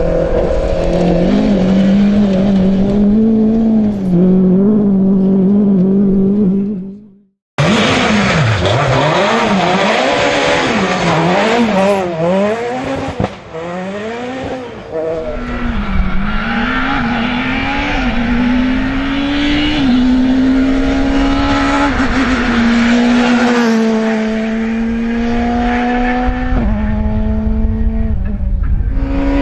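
Rally car engine at high revs. It holds a steady note, then cuts off abruptly about seven seconds in. After that it revs up and down quickly several times, then accelerates hard through the gears, each gear a rising note ending in a sudden drop at the upshift.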